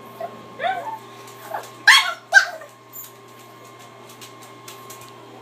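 Dog making odd short whimpering yips, a few in quick succession, the loudest two about two seconds in.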